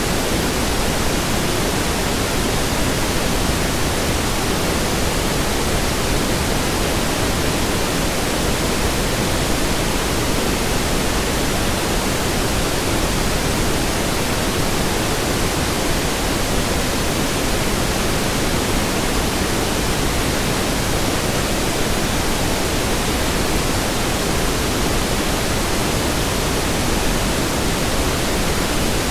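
Steady pink noise: an even, unchanging hiss spread across all pitches, with no tones or rhythm.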